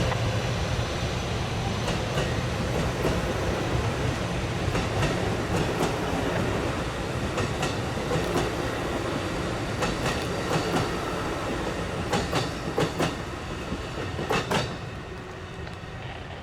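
A passenger train rolling past: a steady rumble with wheels clicking over rail joints, the clicks coming thickest near the end before the sound falls away.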